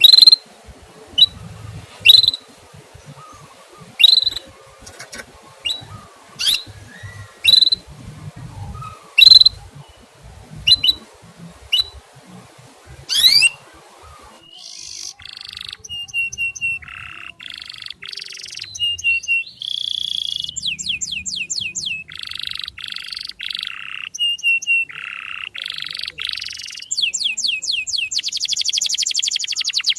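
A bird giving sharp single chirps about every second over a low background hum. About halfway through this switches abruptly to a canary singing varied phrases and trills, building to a fast rattling trill near the end.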